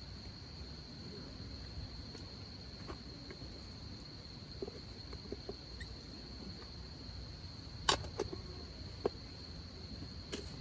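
Insects trilling in one steady high-pitched note, with a few sharp clicks or pops in the second half.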